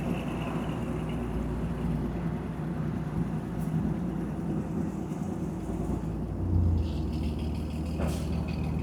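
Car engine idling steadily, with a stronger low hum coming in about six and a half seconds in.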